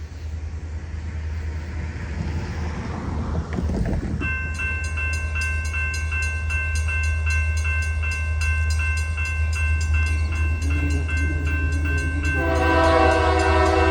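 A grade-crossing bell dings in a rapid, even rhythm from about four seconds in, over a low diesel rumble from an approaching Union Pacific train. Near the end the locomotive's multi-chime air horn starts sounding, louder than everything else.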